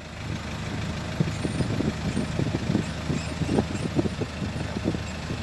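Dump truck's diesel engine running steadily, with irregular knocks and rattles over it.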